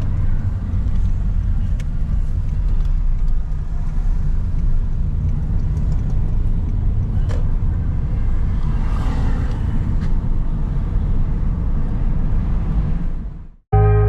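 Steady low rumble of a moving car's road and engine noise. It cuts off suddenly near the end, and music begins.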